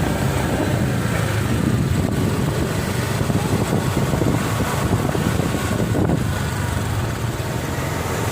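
Vehicle moving along a road: a steady low rumble of engine and road noise, with a fainter hiss above it.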